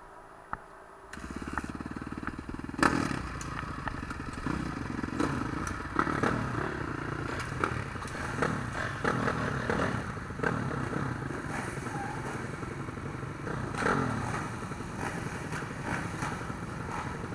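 Dirt bike engines running and revving, coming in about a second in and carrying on unevenly, with a sharp knock near the three-second mark.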